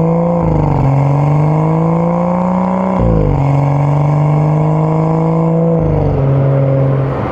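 BMW M235i's turbocharged 3.0-litre inline-six pulling under acceleration. Its note climbs steadily, then drops abruptly three times as it shifts up through the gears.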